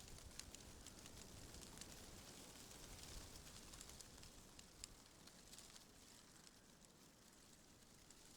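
Faint wind through tree leaves: a soft rustling hiss dotted with many tiny leaf ticks, a little louder around three seconds in.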